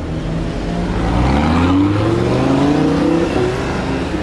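Lamborghini Huracán LP610-4's naturally aspirated V10 engine accelerating, its pitch climbing twice in a row.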